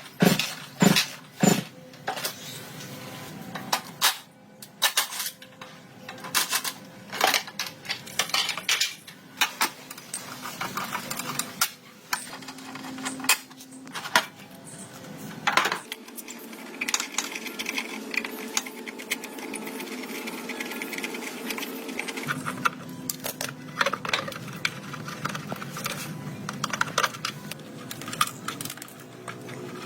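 Irregular metallic clinks, taps and knocks of hand tools and metal parts being worked and handled during a motorcycle teardown.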